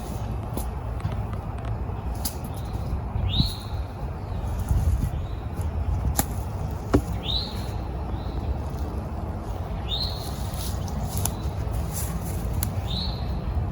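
A bird repeating a short call that slides upward and levels off, about once every three seconds, with a few sharp clicks and a steady low rumble underneath.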